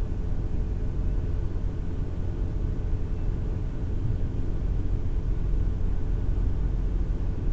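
Steady low rumble of a car driving, heard from inside the cabin by a windshield dash cam: road and engine noise with a faint even hum.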